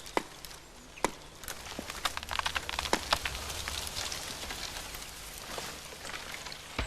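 Coppice wood being cut and handled: irregular crackling and snapping of twigs and brushwood, with a few sharp knocks.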